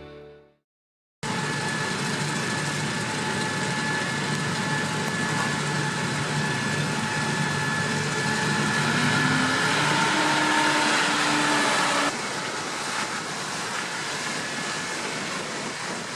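Heavy harvest machinery engine running steadily after a second of silence, with a steady whine over its noise. A tone rises in pitch about eight to ten seconds in, and the sound changes abruptly about twelve seconds in.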